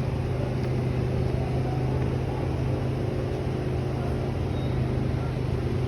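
A steady low mechanical hum with one constant low tone under a faint rushing noise.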